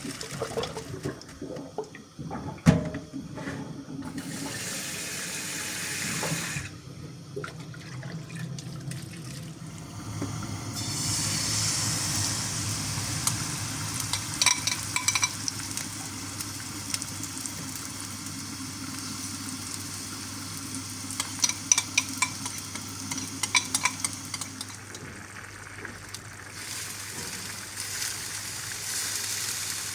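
Kitchen tap running in stretches into a sink or pot. A few clusters of light ringing clinks, like dishes or utensils, come about halfway through and again later.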